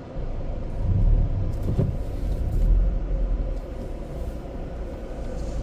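Car idling in a car wash queue, heard as a steady low rumble with a faint steady hum, swelling briefly about a second in and again near the middle.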